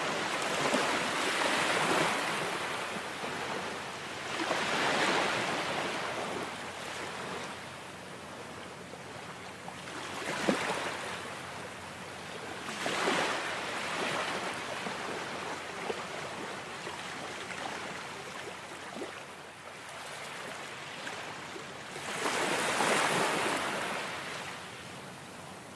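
Ocean surf: waves breaking and washing in, the hiss of water swelling and falling back every few seconds, with a strong surge near the end.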